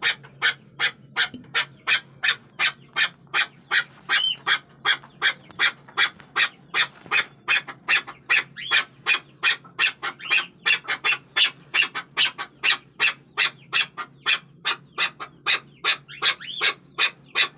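Chukar partridge calling: a long, even series of short, sharp notes, about three to four a second, kept up without a break.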